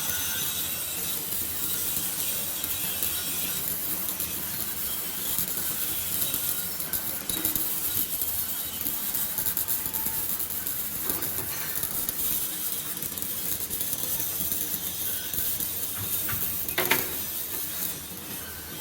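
Electric arc welding on a vertical (3G) test joint: a steady, fluctuating hiss, dropping off shortly before the end with a sharp click.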